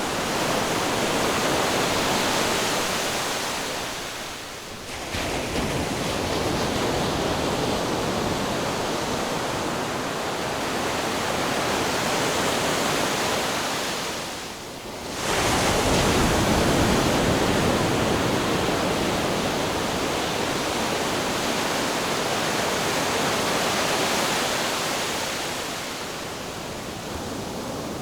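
Ocean surf: a steady wash of breaking waves that eases into short lulls about five and fifteen seconds in, each followed by the next wave surging back in.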